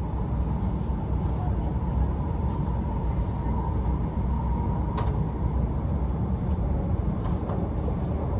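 Steady low rumble inside the cabin of a Shinkansen bullet train rolling slowly out of the station, with a faint steady tone over it and a single sharp click about five seconds in.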